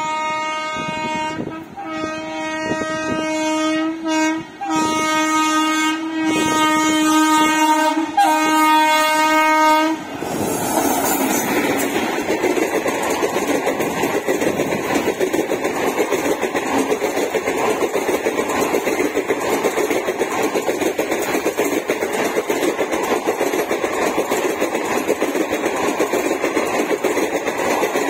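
Indian Railways electric locomotive sounding its horn in a series of long blasts with short breaks for about the first ten seconds. Then a long passenger train's coaches pass close by at speed, a loud, steady rush and rumble of wheels on rail.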